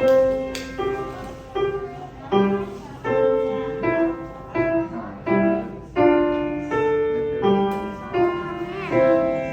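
A piano playing a simple, steady melody, a new note or chord struck about every three quarters of a second, each ringing and fading before the next.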